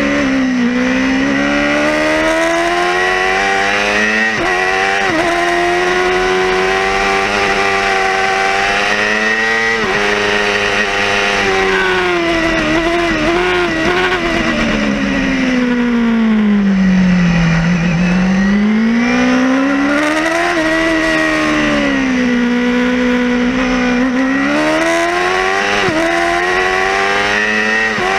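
Yamaha YZF-R6 (5EB) 600cc inline-four engine at racing revs on board, rising and falling through the gears with abrupt steps at the shifts. The note drops for several seconds under braking into a slow corner about halfway through, then climbs hard again, all over wind rush.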